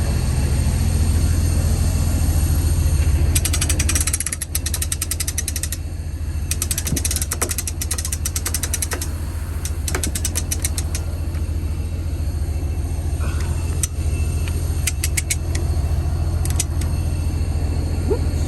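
Semi truck's diesel engine running with a steady low hum, overlaid by several bursts of rapid fine clicking or rattling.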